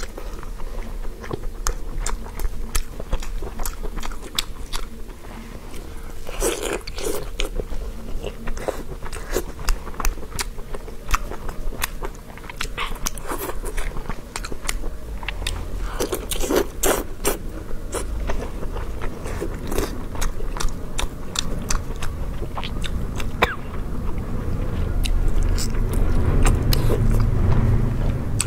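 Close-miked biting and chewing of braised intestine: a steady run of short, sharp mouth clicks and smacks. A louder low rustle comes near the end.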